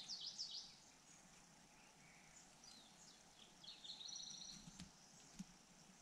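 Faint high-pitched chirps of nestling birds begging with gaping bills: a quick run of squeaky chirps at the start, then a rapid, even trill about four seconds in. A single small click follows near the end.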